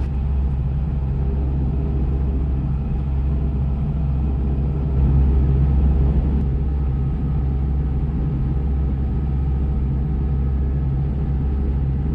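A 2003 Amazone Groundkeeper flail collector runs over turf with its tractor engine, picking off and collecting the grass flower heads. It makes a steady mechanical drone, a little louder for about a second around five seconds in.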